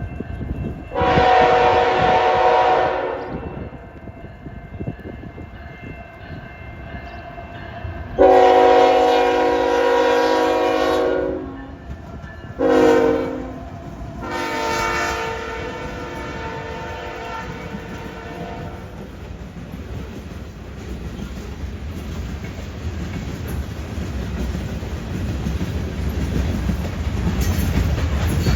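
Freight locomotive air horn sounding the grade-crossing signal: two long blasts, a short one, then a final long one that fades out. Afterwards the locomotives' diesel engines and wheels make a low rumble that grows louder as the train approaches.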